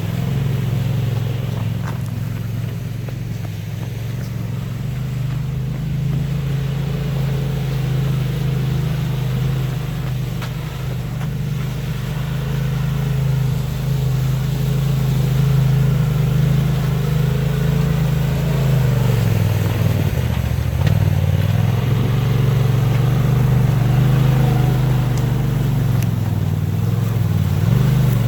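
Polaris RZR XP Turbo S side-by-side's turbocharged twin-cylinder engine running steadily under way. About two-thirds through, the revs drop briefly, then pick up again.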